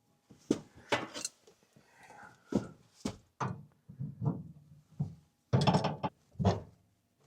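Irregular knocks, clunks and short scrapes of a tool and metal fittings being handled as a propane line is connected and tightened onto a tankless water heater. The knocks are densest about five and a half seconds in.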